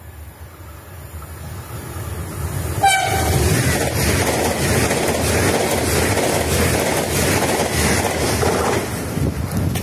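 Italo high-speed train sounding one short horn blast about three seconds in, then rushing through at speed with a loud roar of wheels and air that eases off near the end.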